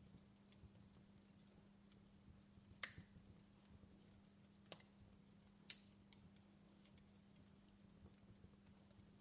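Faint crackle of a wood fire in a fireplace, with a few sharp pops, the loudest about three seconds in and two more near five and six seconds, over a low steady hum.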